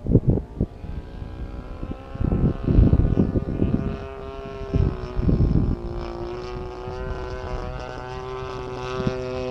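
DLE 35 single-cylinder two-stroke gas engine of a large RC Extra 260 aerobatic plane running in flight, its pitch sliding up and down. Loud gusts of wind buffet the microphone at the start, again from about two to four seconds in, and around five seconds.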